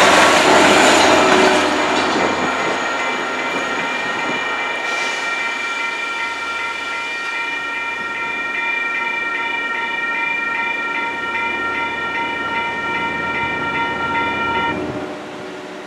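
An MBTA commuter train rumbling past a grade crossing, with wheels clacking on the rails; it fades after the first couple of seconds. A grade-crossing warning bell keeps ringing steadily after the train has passed and stops shortly before the end.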